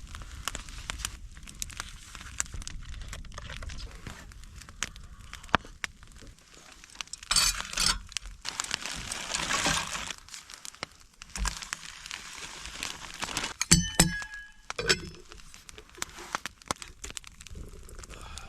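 Rustling and crinkling of camp gear being handled, with scattered sharp clicks. About 14 seconds in, metal cookware clinks and rings briefly.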